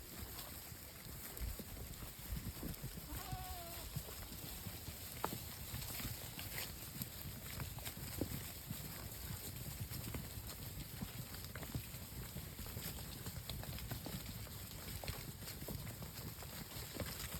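A herd of Alpine goats and people walking along a woodland trail: irregular footsteps and hoof steps, with one short goat bleat about three seconds in.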